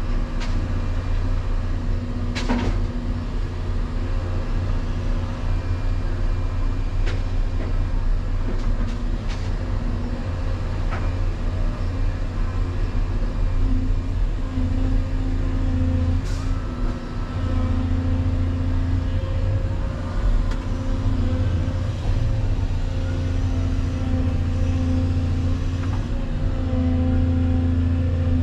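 Diesel engine of a Volvo EC220EL excavator running under working load, its drone swelling and easing every few seconds as the hydraulics dig and swing. A few sharp knocks or clanks cut in, around 2.5, 7, 9 and 16 seconds in.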